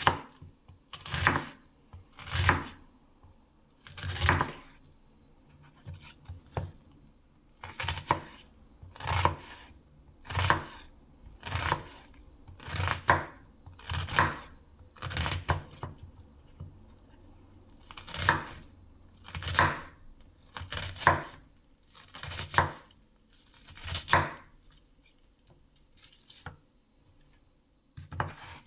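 Knife cutting through food on a cutting board in a slow, even series of single strokes, about one a second, pausing for a few seconds near the end.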